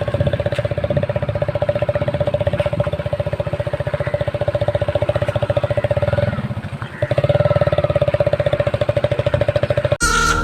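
Hero Splendor single-cylinder four-stroke motorcycle running through an exhaust with a Pepsi can tied on as a makeshift muffler, meant to make it sound like a KTM Duke. The exhaust beat is rapid and even, with a steady hum over it. It eases off briefly about six seconds in, then picks up again, and cuts off just before the end.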